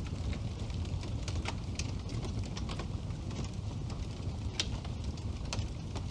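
Wood fire burning in a fireplace: a steady low rumble of the flames with irregular crackles and pops, one sharper pop a little after halfway through.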